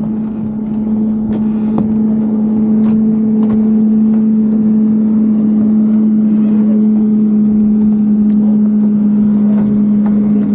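An engine running at a steady speed, a constant even drone, with a few brief rustles over it.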